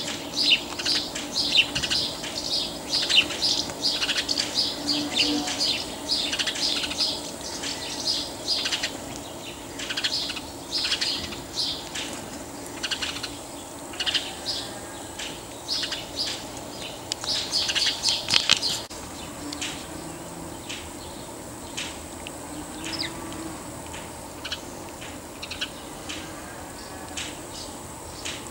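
Birds chirping and twittering, with many short high calls packed close together for the first two-thirds, then fewer and more spaced out, over a faint steady background hum.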